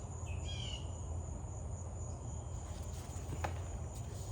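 Crickets chirring steadily in a high, even tone over a low, steady hum, with a few short chirps in the first second.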